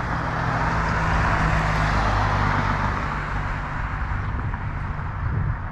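A car passing on the road, its tyre and engine noise swelling over the first couple of seconds and fading away, over a steady low rumble.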